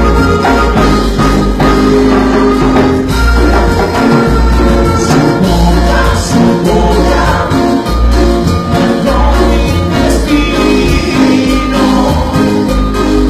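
Cumbia played live by a band, with a steady pulsing bass beat under pitched melody lines.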